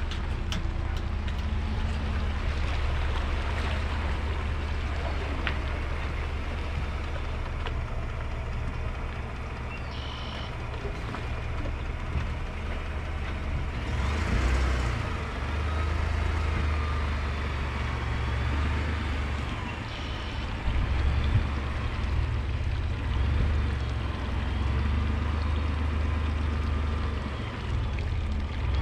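Steady low drone of a vehicle in motion.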